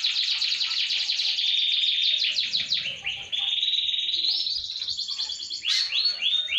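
Domestic canary singing a long, unbroken song of fast trills, switching to a new trill every second or so, with a few quick gliding notes near the end. It is a lure song of the kind played to get other canaries singing.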